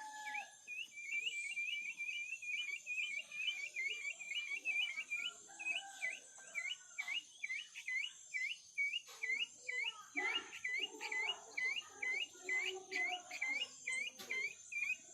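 A bird calling one short, hooked note over and over, about three times a second, steady and unbroken.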